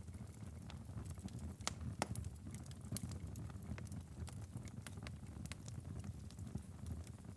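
Wood fire crackling in a fireplace: a low steady rumble with irregular sharp pops and snaps, two of the loudest a little under two seconds in and at about two seconds.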